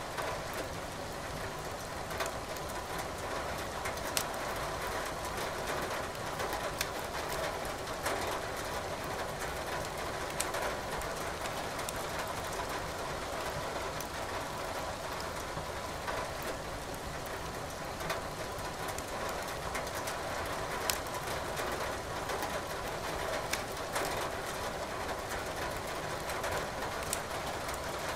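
Steady rain hiss with scattered sharp crackles and pops of burning firewood in a fireplace.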